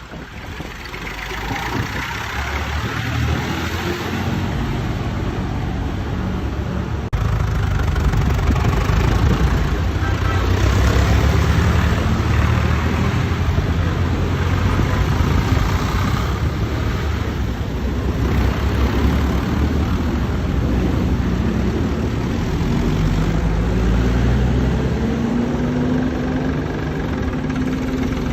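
Old tractor engines running as tractors drive past. The sound grows louder over the first several seconds, jumps up about seven seconds in, then runs loud and steady, with an engine note climbing near the end.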